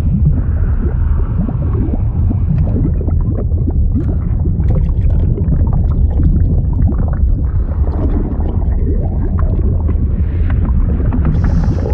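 Liquid sound effect: a steady deep rumble of moving water with bubbling, gurgling pops throughout.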